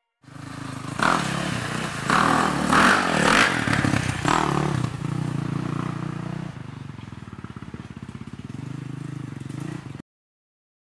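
Sport quad (ATV) engine revved in several short bursts, then settling into steady lower running near idle; the sound cuts off suddenly near the end.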